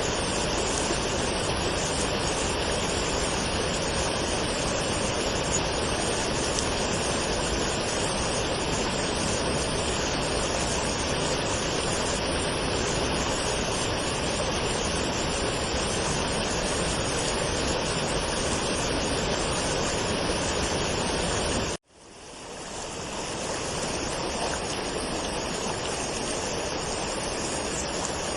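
Waterfall rushing steadily. About twenty-two seconds in it cuts out abruptly for an instant and fades back in over about two seconds.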